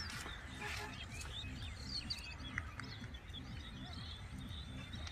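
Small birds chirping and twittering, many short quick calls, over a steady low rumble.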